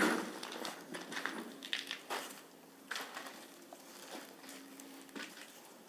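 Footsteps crunching over debris and rubble on a concrete floor, irregular steps, loudest right at the start.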